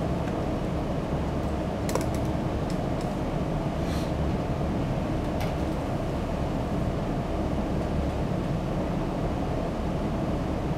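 Steady low rumbling room noise, such as ventilation or air handling, with a few faint clicks or taps.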